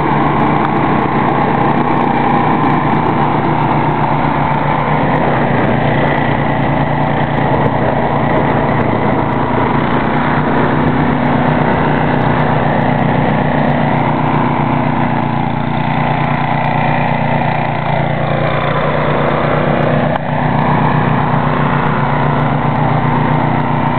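Ariens snow thrower's engine running steadily at working speed, with only slight wavers in pitch.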